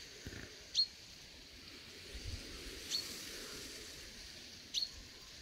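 A bird gives a short, rising call three times, about two seconds apart. Underneath is a faint steady outdoor hiss with a few soft low thumps.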